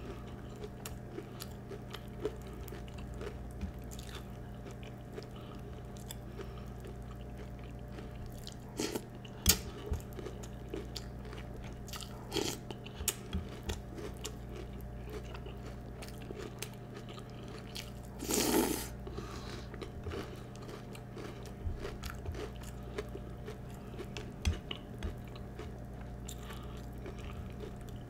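Close-up crunching and chewing of Peeps marshmallow-flavoured cereal, in scattered short bites over a steady low hum. One louder, longer noisy sound comes about two-thirds of the way through.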